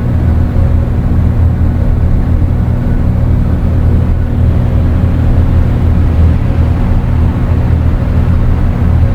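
Dark ambient drone music: a loud, steady low rumbling drone with a few sustained tones and a hiss of noise above, with no beat and no breaks.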